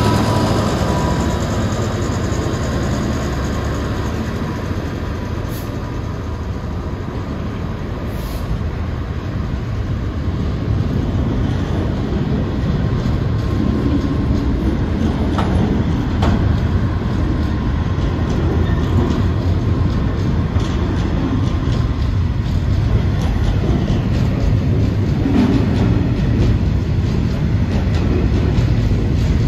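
GBRf Class 66 diesel locomotive passing close by, then a long rake of covered hopper wagons rolling past with a steady low rumble and scattered clicks of wheels over the track.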